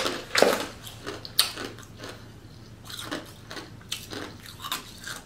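Close-miked chewing and mouth sounds of someone eating, irregular wet smacks a second or so apart.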